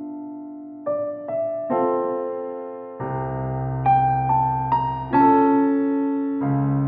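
Background piano music: gentle chords and single notes struck one after another, each ringing and fading, with a low bass note under the later chords.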